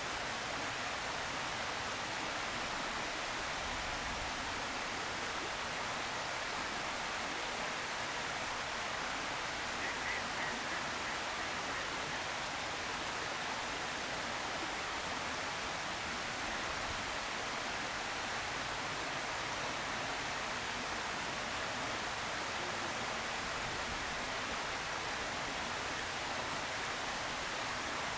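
Steady, even hiss, with a faint short call about ten seconds in.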